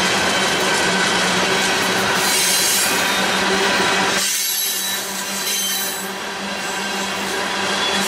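Covered hopper cars of a freight train rolling past at close range: steel wheels grinding on the rails with a steady hum and a thin squeal. The low rumble drops away about four seconds in.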